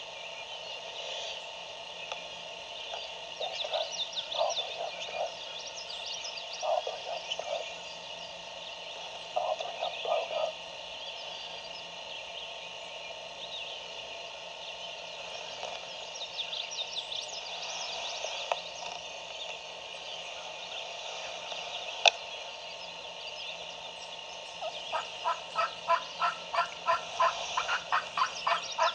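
A distant wild turkey gobbling faintly, several short rattling gobbles in the first ten seconds, over a background of songbirds chirping. Near the end comes a faster series of pulsed calls lasting about three seconds, and there is a single sharp click in the middle.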